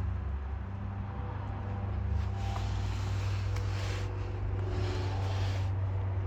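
A 2017 Audi Q5's 2.0-litre turbocharged four-cylinder engine idling steadily, with a low, even hum.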